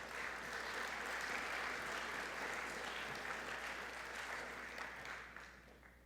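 Audience applauding in a gymnasium, starting right away, holding steady for about five seconds, then fading out near the end.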